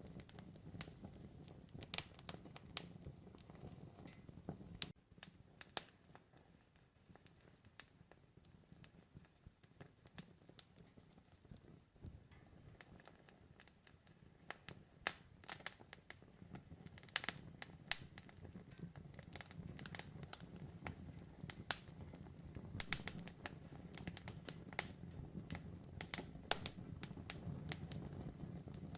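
Campfire crackling: irregular sharp pops and snaps of burning wood over a steady low rumble of the flames. The pops come thicker in the second half.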